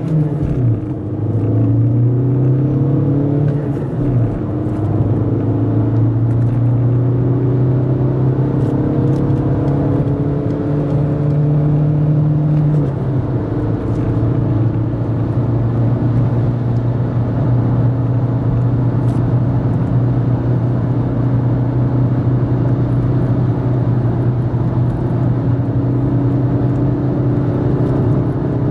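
Volkswagen Golf V 1.6 FSI naturally aspirated four-cylinder petrol engine under full-throttle acceleration, heard from inside the cabin. The engine note climbs through the gears, dropping at upshifts about a second, four seconds and thirteen seconds in, then rises slowly in the top gears as the car passes about 150 km/h.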